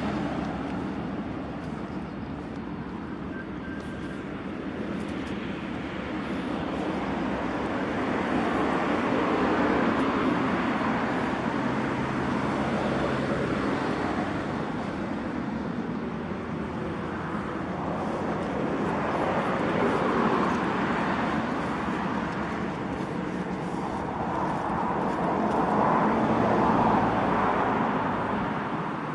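Road vehicle noise: engines and tyres on tarmac, swelling and fading every several seconds.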